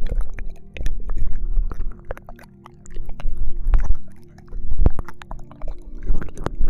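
ASMR ear licking into a binaural microphone: wet tongue and mouth sounds, many short smacks and clicks over low rumbling close to the mic.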